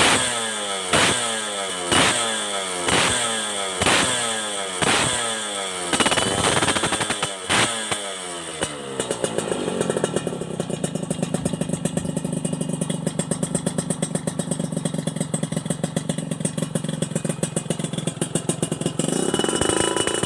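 Motorcycle engine breathing through a BRAT aftermarket exhaust. The throttle is blipped about once a second, each rev falling away, for the first six seconds, then a few more uneven blips. After that it settles to a steady idle, and it revs up again near the end.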